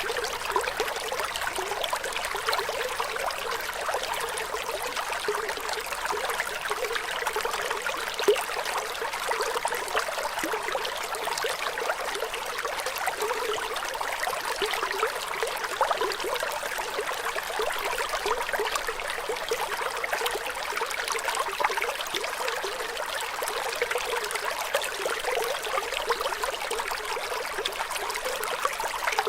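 Running water trickling and babbling steadily, as in a small stream, with one brief sharper splash about eight seconds in.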